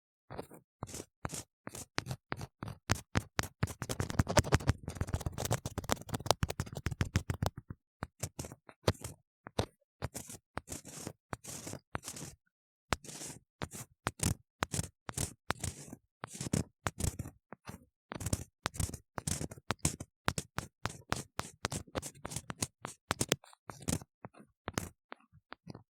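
Ear-cleaning tool scraping and scratching inside a silicone ear model in quick, rough strokes, with a dense run of rapid scratching a few seconds in.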